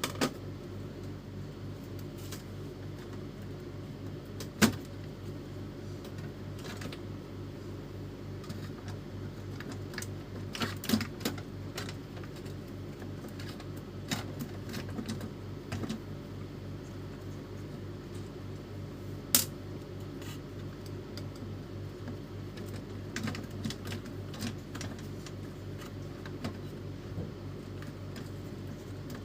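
Sharp clicks and clinks of tools and small printer parts being handled now and then over a steady low hum, as an Epson L310 inkjet printer is taken apart to replace its carriage motor.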